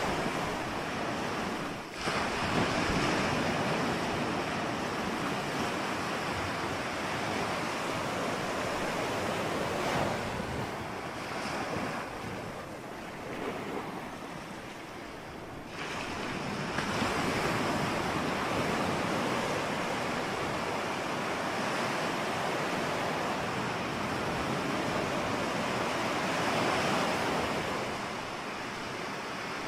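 Ocean surf: waves breaking and washing ashore in a continuous rush of water. It eases for a few seconds around the middle, then swells back when the next wave comes in just past halfway.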